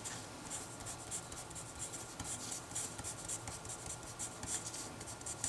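Handwriting: a run of quick, short scratchy strokes as someone writes by hand.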